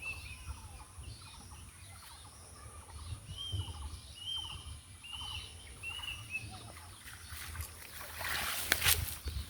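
A bird calling over and over, each call a short arched note, several in a row at a steady pace. About eight seconds in, a louder rush of noise with a few sharp clicks.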